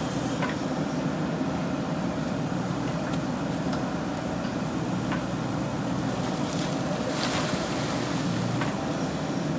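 JCB 3DX backhoe loader's diesel engine running steadily, with scattered light clicks and knocks and a brief rushing noise about seven seconds in.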